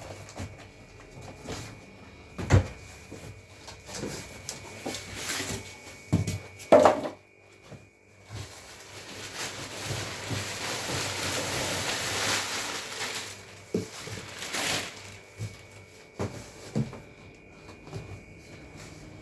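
Handling noises while unpacking a washing machine: scattered knocks and clicks, with a longer stretch of rustling noise in the middle.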